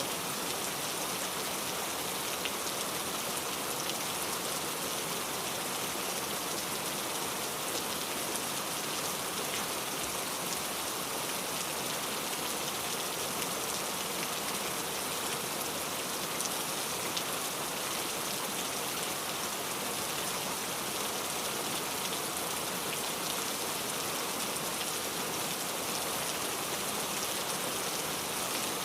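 Steady rain, a constant hiss of falling drops with scattered faint ticks of individual drops hitting a surface.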